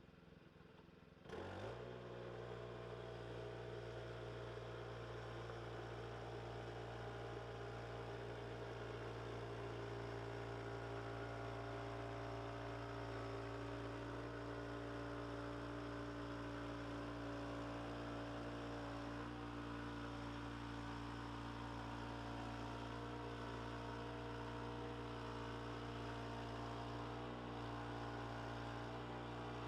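A machine's motor spins up about a second in, its pitch rising briefly, then runs at a steady speed with an even hum.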